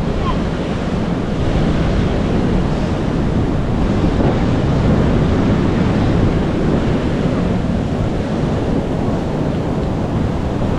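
Ocean surf washing onto a sandy beach, a steady rush of waves that swells a little about halfway through, with wind rumbling on the microphone.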